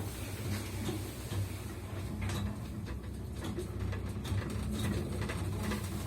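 1993 KMZ passenger elevator running: a steady low hum from its 4AN-180 motor with rapid, irregular clicking and rattling from the lift mechanism, whose speed governor is loud.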